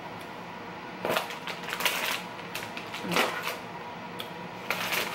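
Crunchy cookie squares being chewed close to the microphone, in irregular crackling crunches.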